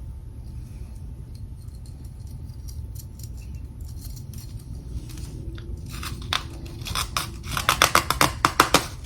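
Freezer frost being bitten and chewed: after a quiet stretch, crisp crunches start about six seconds in and come thick and fast near the end, over a steady low hum.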